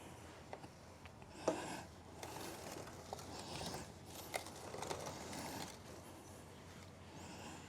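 Faint scrubbing and rubbing on a motorcycle drive chain being cleaned, with a few light clicks, the sharpest about a second and a half in.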